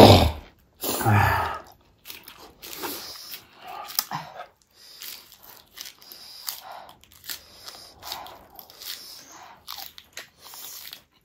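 Close-miked eating: lettuce and food being bitten, crunched and chewed in short, irregular bursts. A short loud sound right at the start and another about a second in stand out above the chewing.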